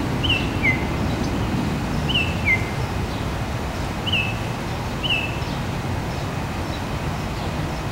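A bird calling with short downward-slurred chirps, six in all, twice as a higher note followed by a lower one, over a steady low rumble of outdoor background noise.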